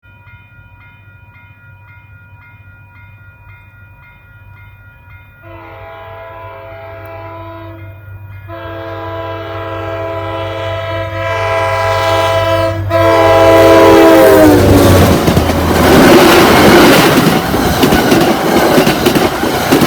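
Grade-crossing bell ringing about twice a second as a diesel locomotive approaches. The locomotive's air horn sounds two long blasts, its pitch dropping as it passes, then the train goes by loudly with wheels clacking over the rails.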